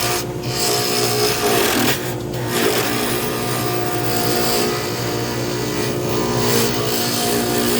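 Lathe motor running steadily with a tool scraping against the spinning pen blank, the scraping letting up briefly twice.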